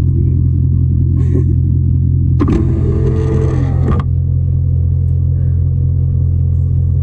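Car engine running with a steady low rumble, heard inside the cabin. A short burst of a voice breaks in about two and a half seconds in and stops at about four seconds.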